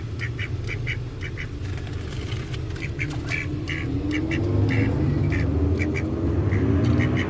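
Ducks calling in a quick run of short, high calls, over the steady low drone of a loud motorbike engine some way off. About three seconds in, the engine note begins rising and falling as it revs.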